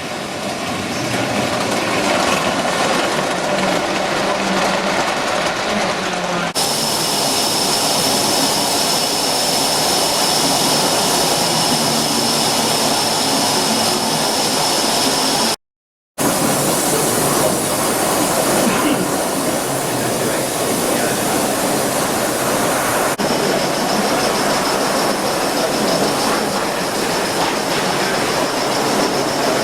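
G-scale model trains running on the track: a steady rushing running noise with a thin, steady high whine that sounds for long stretches. The sound cuts out completely for about half a second midway.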